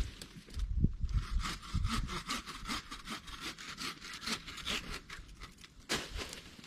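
Hand saw cutting wood with quick, even back-and-forth strokes, which stop about five and a half seconds in; a single knock follows just before the end.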